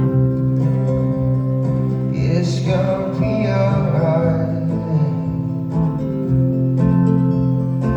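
Live acoustic music: acoustic guitar chords ringing steadily, with a voice singing a line from about two seconds in to about five seconds in.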